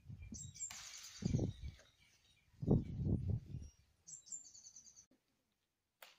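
Small birds chirping in short, quickly repeated trills, twice. Between them, a brief rustle and louder low muffled noise.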